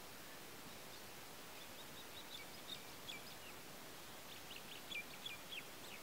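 A bird calling in two quick series of short, high chirps, the first about two seconds in and the second about four and a half seconds in, over a steady hiss.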